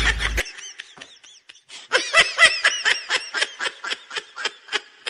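High-pitched giggling laughter in a rapid string of short pulses, about five a second, sparse at first and running steadily from about two seconds in.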